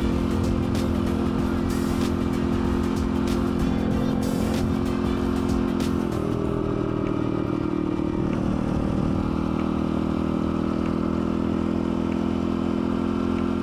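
Dirt bike engine running at a steady speed while being ridden, with clicks and clatter over the ground in the first half. The engine note shifts about six seconds in.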